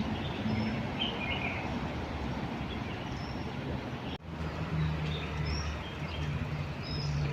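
Small wild birds giving short, high chirps over steady outdoor background noise, with a low engine hum coming in about halfway through.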